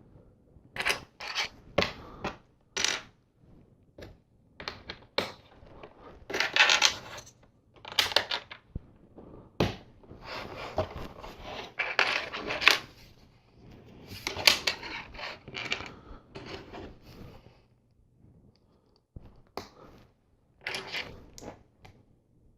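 Small plastic LEGO pieces clicking and clattering as they are picked through and handled, a string of short rattles and clicks with a brief pause near the end.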